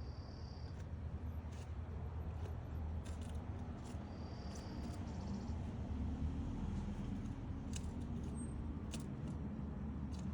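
Woodpecker chiselling at its nest hole: scattered, irregular sharp taps on wood over a steady low rumble. Two short high notes, one at the start and one about four seconds in.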